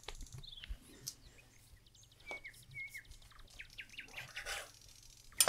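Faint bird chirps and short rapid trills, with a few short falling whistled notes, over soft clicks and a brief scraping noise of dough being handled and cut on a board.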